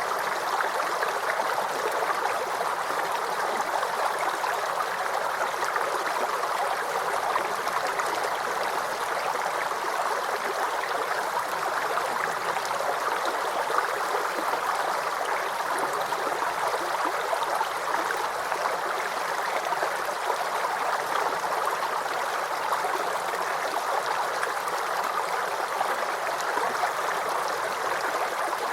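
Small creek babbling and gurgling over stones in a steady, unbroken flow.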